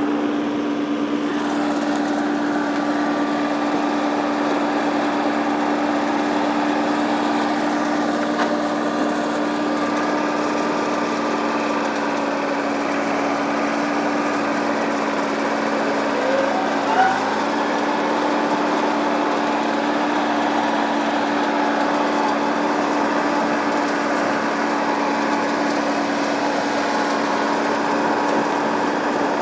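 Massey Ferguson tractor engine running at a steady speed, with a brief dip in pitch a little past halfway through.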